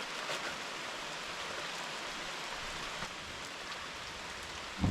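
Steady rain falling, an even hiss. Right at the end a thunderclap breaks in with a sudden deep rumble.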